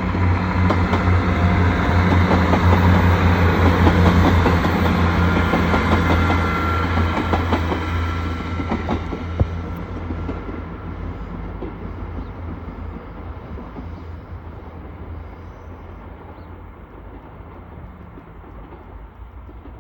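Class 158 diesel multiple unit pulling away, its diesel engines giving a steady low drone with wheels clicking over rail joints. Loud in the first half, then fading steadily as the train draws away.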